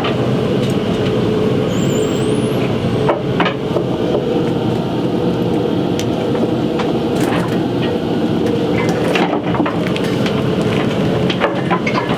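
An opal-mining blower (suction truck) running hard, a loud steady machine noise with a droning hum, with scattered knocks and rattles through it.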